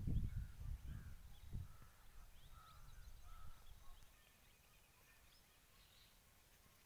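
Faint outdoor bird calls and short chirps over a low rumble on the microphone, dying away about halfway through to near silence.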